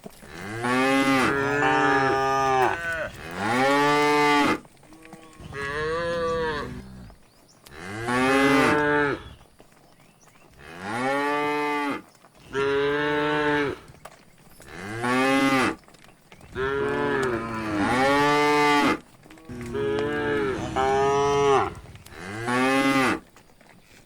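Cattle mooing over and over: about ten long moos in quick succession, each rising and then falling in pitch.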